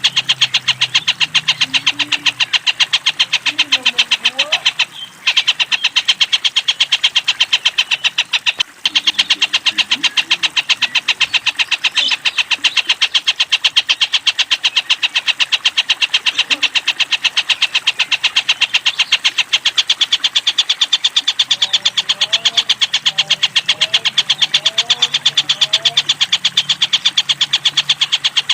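Collared kingfisher (tengkek buto) calling in a loud, fast, continuous rattling chatter of rapid repeated notes, broken briefly twice, about five and nine seconds in.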